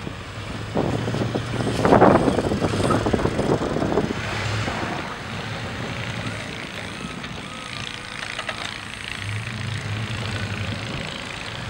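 A vehicle engine running steadily outdoors in a snowstorm, its low hum fading and returning, with louder wind noise on the microphone during the first few seconds.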